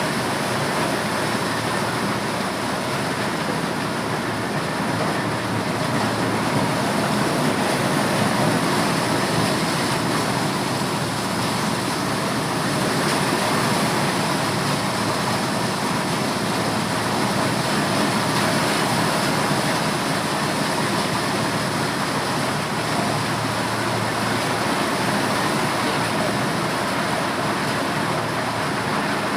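Motorized corn sheller running steadily as it threshes maize: a loud, dense, unbroken mechanical noise with no pauses.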